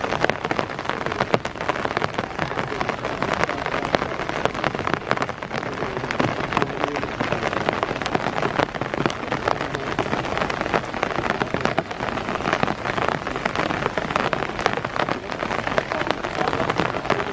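Rain pattering steadily on a hard surface, a dense stream of small drop impacts.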